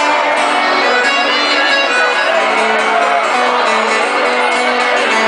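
A live sertanejo band playing a song, with steady sustained notes and a melody line and no break.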